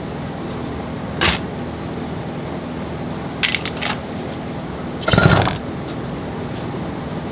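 Metal parts and tools clinking and knocking on a workbench during an alternator teardown: a single knock, a short rattle of clinks a few seconds later, and a louder ringing clank about five seconds in, over a steady hiss.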